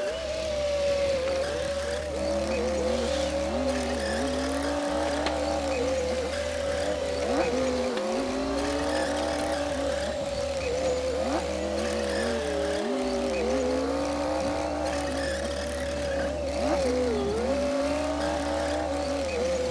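Komatsu D60P bulldozer's diesel engine running steadily as it pushes soil, its pitch sagging briefly every few seconds as the machine takes load.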